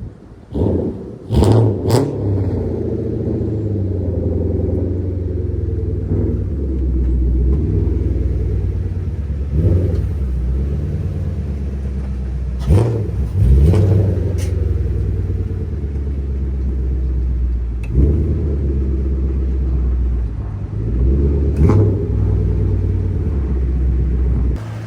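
Infiniti Q45's V8 engine idling steadily, blipped a few times in brief revs that rise and fall.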